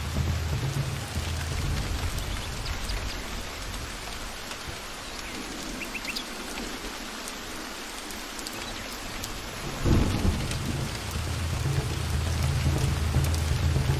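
Steady heavy rain with rolling thunder. The low rumble fades in the middle, then a thunderclap breaks about ten seconds in and the rumbling builds again.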